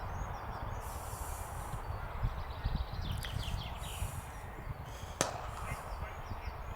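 Open-air cricket ground background with a steady low rumble, broken once about five seconds in by a single sharp crack of a cricket bat striking the ball.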